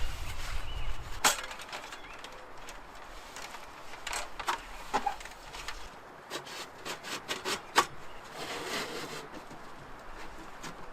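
Scattered light clicks and knocks with some rustling: gear being handled while a small camping wood stove is set up.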